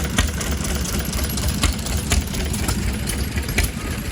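An old engine idling with a steady low chugging, and sharp knocks about once a second.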